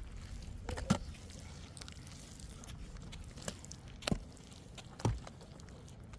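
A few irregular sharp knocks, about four, over a steady low rumble.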